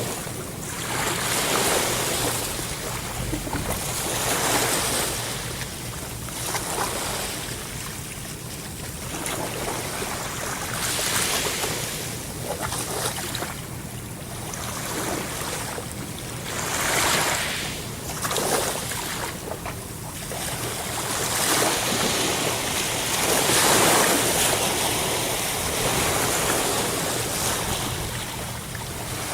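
Ocean waves breaking and washing on a shore, the surf swelling and falling every few seconds.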